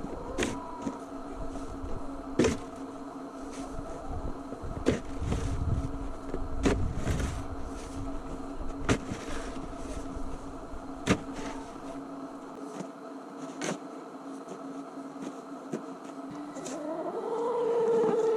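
A small engine running steadily, with sharp knocks about every two seconds. Near the end a whine rises and falls.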